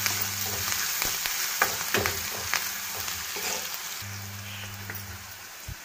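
Chopped onions and curry leaves sizzling in hot oil in a steel pan, stirred with a steel spoon that clicks and scrapes against the pan a few times in the middle.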